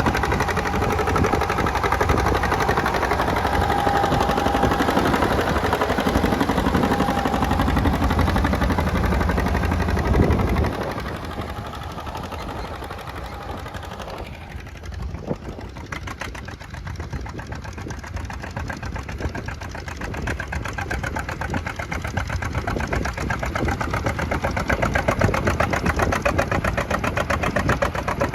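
John Deere two-cylinder tractor engine running with a rapid, even beat. It drops suddenly to a quieter run about ten seconds in, then slowly gets louder again.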